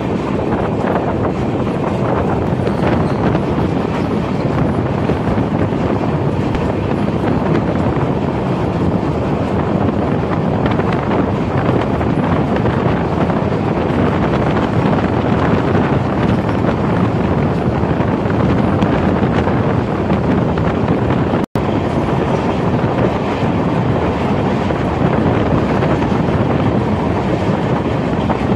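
Passenger train running along the line, heard from beside the coach: a steady rumble of wheels on rail with wind on the microphone. The sound cuts out for an instant about two-thirds of the way through.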